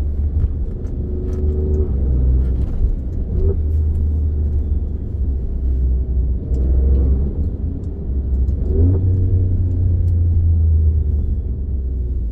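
Alfa Romeo Stelvio Quadrifoglio's twin-turbo 2.9-litre V6 running while the car is driven, a deep rumble that swells and eases a few times as the engine note bends up and down.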